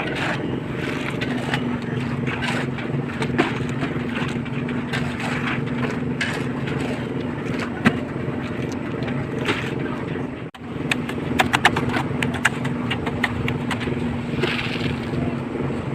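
Small concrete mixer's engine running steadily. Scattered sharp clinks and knocks, with a quick run of them just after a momentary dropout about ten and a half seconds in.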